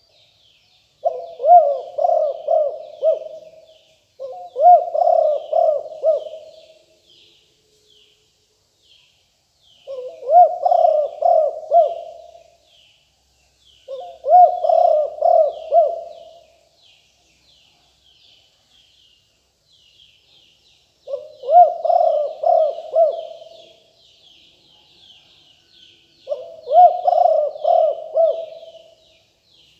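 Spotted dove cooing: six phrases of about two seconds each, repeated with short pauses between them. A faint, rapid high chirping runs behind the cooing throughout.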